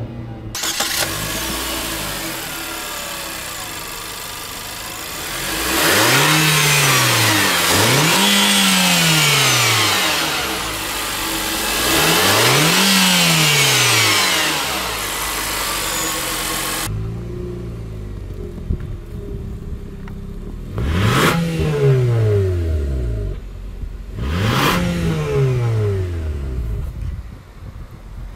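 Nissan X-Trail (T32) engine running steadily, then revved in a series of throttle blips, each rising and falling in pitch, about six times.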